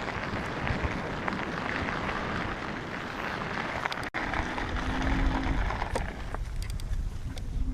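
Wind rumbling on the microphone with a rushing haze; after an abrupt break about four seconds in, a small electric motor gives a short steady whine over the rumble.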